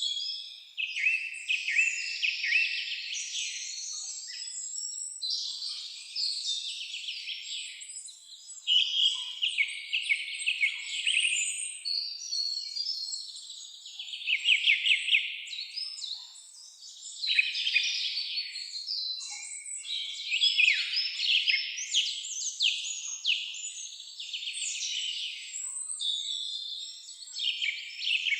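Songbirds singing with no let-up: phrases of quick chirps and rapid trills follow and overlap one another, some louder and nearer than others.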